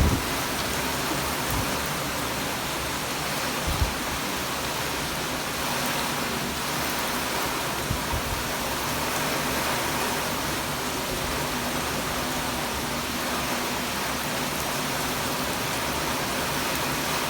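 Heavy rain pouring down in a strong wind, an even, steady hiss. A few brief low thumps come near the start and about 4 and 8 seconds in.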